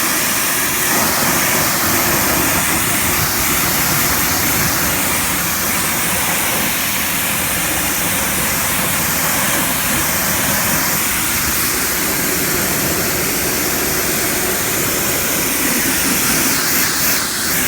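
Steady spray of water rinsing soap off a truck's body, a loud, even rush.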